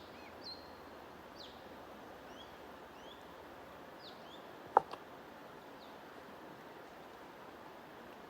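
Steady rushing noise of flowing water, with small birds giving short chirps now and then. A single sharp click a little past halfway is the loudest sound.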